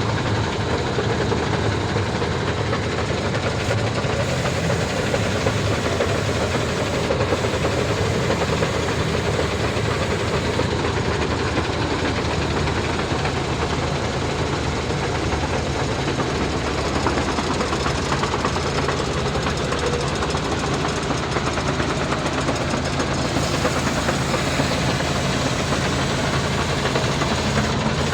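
Heavy diesel truck engine running steadily at idle.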